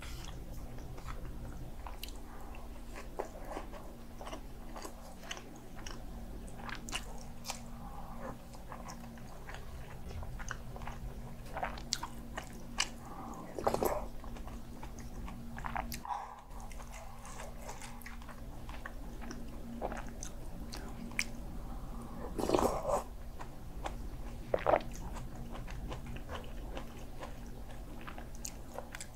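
Close-miked chewing and biting while eating kimchi jjigae, soft mouth clicks with a few louder crunches of kimchi, over a faint steady low hum.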